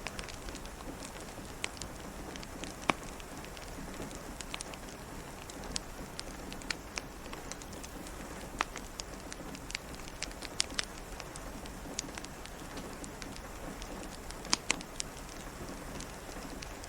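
Steady rain pattering, with scattered sharp pops and clicks from a crackling fireplace throughout.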